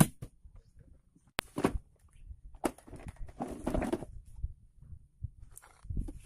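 Scattered knocks, taps and clicks of things being handled, with a short rustle about three and a half seconds in.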